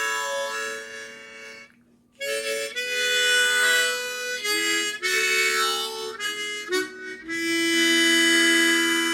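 Harmonica playing a slow melody, mostly in two-note chords. There is a brief pause about two seconds in, then a run of changing notes, and a long held note near the end.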